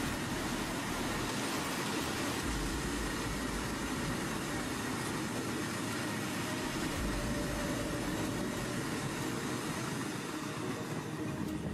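Long freight train of empty open-top wagons rolling past, a steady, unbroken rumble and rattle of wheels on rails.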